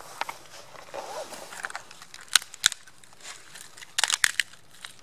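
Dry twigs and woodland debris snapping and crunching in several sharp cracks, a couple in the middle and a quick cluster near the end.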